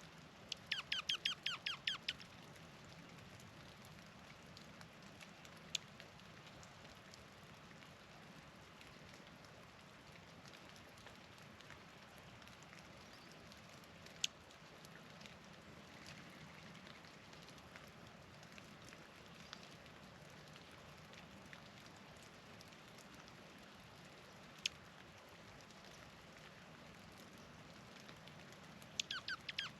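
A bird sounds a quick run of high, squeaky, downward-slurred notes about a second in and again near the end. A few single sharp chips come in between, over a faint steady hiss.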